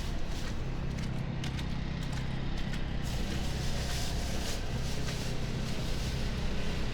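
Footsteps in snow, irregular short crunches, over a steady low rumble of city traffic.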